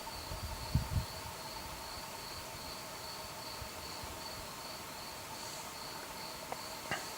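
Crickets chirping on a warm summer night, a steady high pulsing trill that runs on without a break. A couple of low bumps come about a second in, and a faint click near the end.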